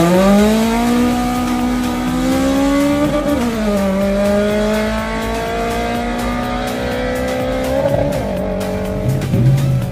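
Drag-racing car accelerating hard down the strip, its engine note climbing steadily. It drops with a gear shift about three seconds in and shifts again near eight seconds, then fades away.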